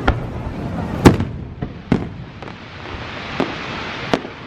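Aerial fireworks bursting: about five sharp booms, the loudest about a second in, with a rising hiss of crackling from about halfway through.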